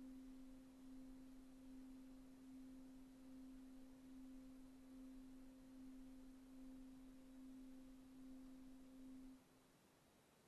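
Faint tail of one sustained guitar note from background music, ringing out as a near-pure tone and cutting off to silence about nine seconds in.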